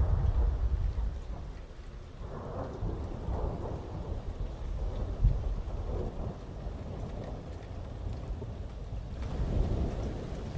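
Thunder rolling over steady heavy rain: a rumble fading over the first couple of seconds, a short low thud about five seconds in, and another rumble swelling near the end.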